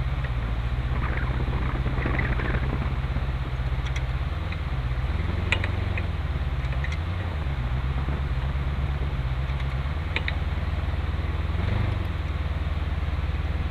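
LPG-fuelled Chevrolet 350 V8 in a modified FJ40 Land Cruiser running steadily at low revs while driving along a dirt track. Its note dips and rises slightly a few times, and a few sharp clicks sound about five and ten seconds in.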